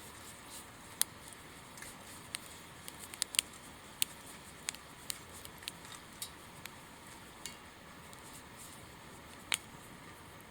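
Wood fire burning in a small stainless-steel wood stove, crackling with sharp irregular pops over a faint steady hiss.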